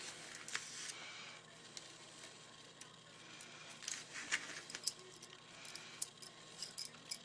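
Internal parts of a UA-937 Magnum airsoft gun being fitted into the gun body by hand: faint, scattered clicks and light taps of small hard parts, more frequent in the second half.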